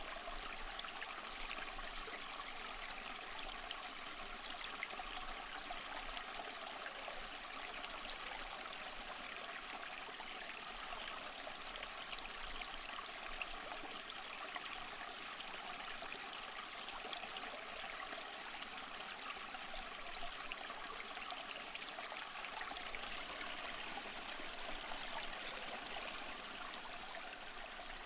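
Steady flowing and trickling of a small stream over stones, an even rushing hiss with fine babbling detail.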